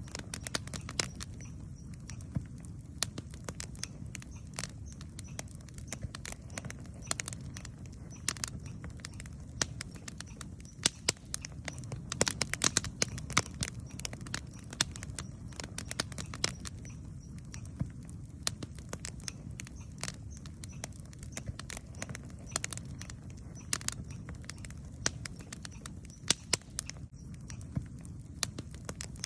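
Wood campfire crackling and popping: irregular sharp snaps over a steady low rumble, with a run of louder pops about twelve seconds in.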